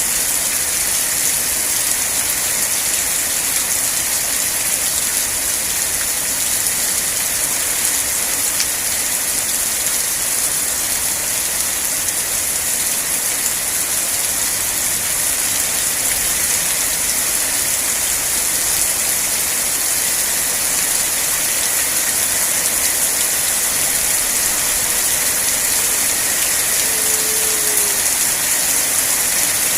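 Steady heavy rain falling, an even hiss with no breaks. A short faint tone sounds near the end.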